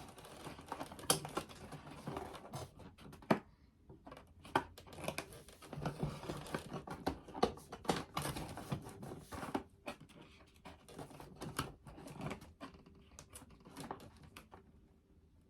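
Foam board pieces being handled and pressed together during hot-gluing: irregular light clicks and taps with rustling and crinkling in between.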